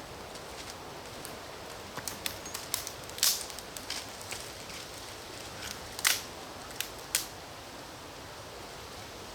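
Campfire wood crackling, with scattered small clicks and three sharper pops a few seconds apart over a steady faint hiss.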